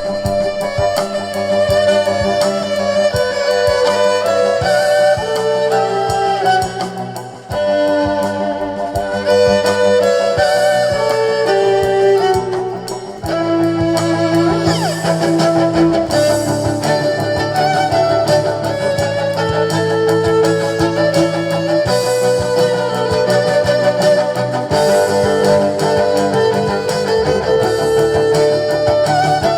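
A band playing instrumental music live, a melody moving over a steady accompaniment, with a brief drop in loudness about seven seconds in.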